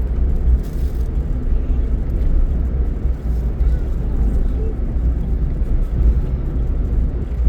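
Car driving at speed on a highway: a steady, heavy low rumble of road and engine noise.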